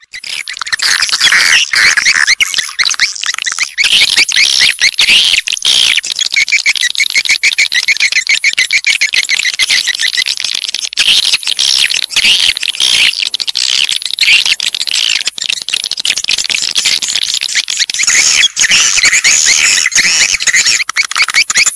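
Recorded swiftlet lure calls: a loud, dense chorus of swiftlet twittering and chirping that starts suddenly and keeps on without a break.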